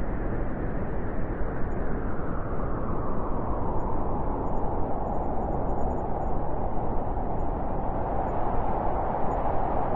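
Blizzard wind blowing steadily, with a howling tone that grows stronger about three seconds in.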